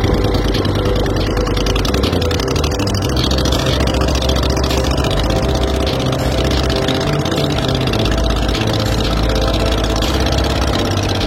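Subaru EX40 404 cc single-cylinder air-cooled engine on a longtail boat running smoothly and steadily at an even speed.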